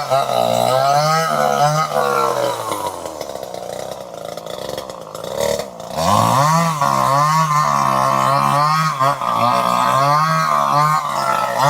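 Two-stroke chainsaw engine running at high revs with a wavering pitch. It drops back toward idle and quietens about two to three seconds in, then revs up sharply again about six seconds in.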